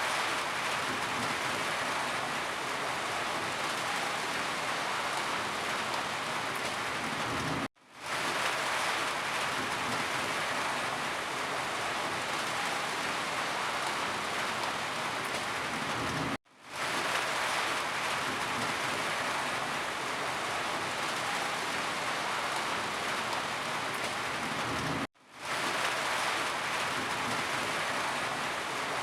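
Steady rain, an even hiss of falling drops. Three times, about every nine seconds, the sound cuts out abruptly for a moment and fades back in.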